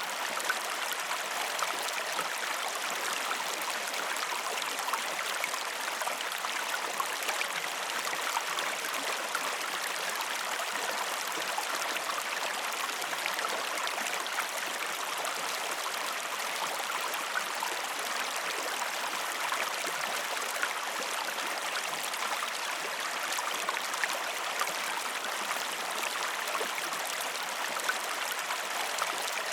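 A river flowing: a steady, even rush of running water that does not change.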